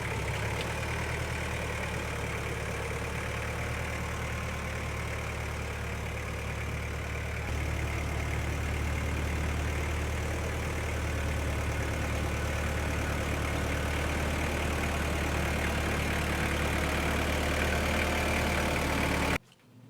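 Small gasoline engine of an Echo Bear Cat wood chipper running steadily with no wood being fed, its note shifting slightly about seven seconds in. It cuts off abruptly near the end.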